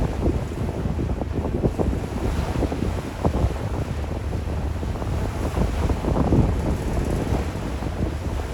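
Wind buffeting the microphone in irregular gusts aboard a moving ferry, over a steady low rumble.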